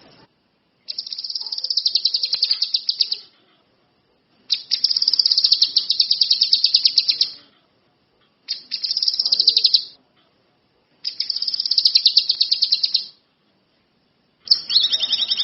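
A songbird singing a series of five rapid, pulsing, high-pitched trills, each lasting one to three seconds with short pauses between.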